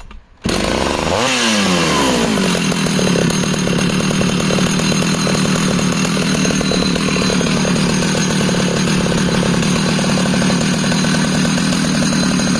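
Jonsered 820 81cc two-stroke chainsaw restarting: it fires suddenly about half a second in, revs up briefly and drops back, then settles into a steady idle.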